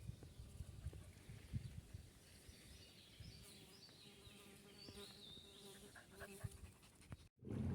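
A flying insect buzzing faintly, a steady hum with overtones that comes in about three seconds in and fades after six, over quiet outdoor ambience with faint high chirps and a few soft low thumps at the start. The sound cuts out abruptly near the end.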